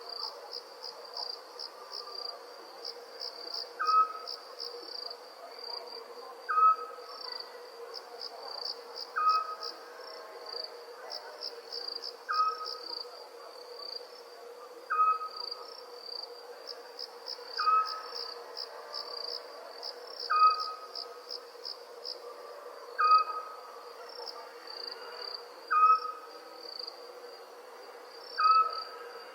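Crickets chirping in fast, high trills, with an owl giving a short single call about every two and a half seconds, the loudest sound. A steady low hum runs underneath.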